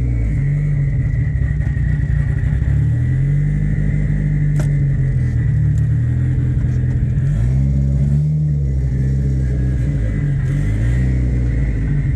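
Mitsubishi 4G63 four-cylinder engine in an Evo 3–converted Mirage running, its speed rising and falling a few times, with a faint steady high whine over it.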